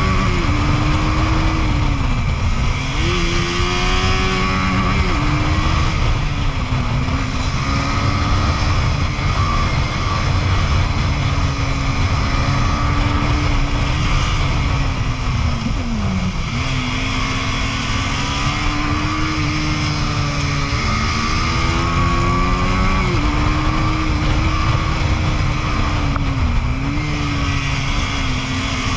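KTM Duke 250 single-cylinder motorcycle engine running at high revs at speed, its pitch holding steady with several brief dips and recoveries as the rider shifts or eases off the throttle. Heavy wind rush on the rider's microphone throughout.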